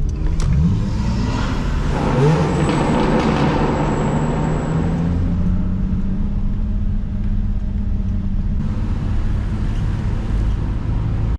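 Nissan 350Z's 3.5-litre V6 engine running at low speed. Its note rises briefly about two seconds in, then holds steady.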